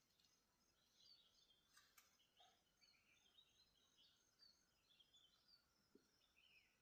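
Faint birdsong: many short, high chirps one after another, with a single sharp click about two seconds in.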